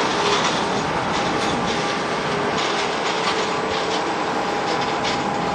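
Boeing 767-300ER jet engines running: a steady, loud rush of noise with a faint steady whine on top.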